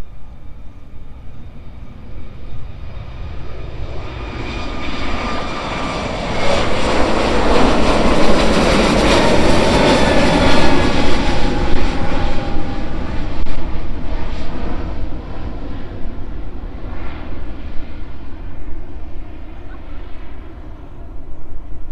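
Airbus A320neo's Pratt & Whitney PW1100G geared turbofan engines passing by. The jet noise builds from a few seconds in, is loudest around the middle, then fades, with a whine that falls in pitch as it goes.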